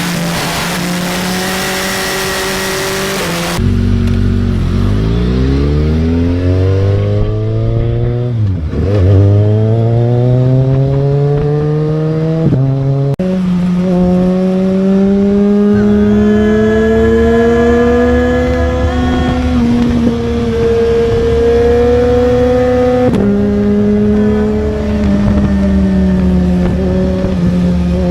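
Motorcycle engine accelerating along a winding road. Loud rushing wind noise covers it at first and cuts off about three and a half seconds in. After that the engine's pitch climbs steadily, drops sharply about nine seconds in, climbs again, and then holds fairly steady with a few small shifts.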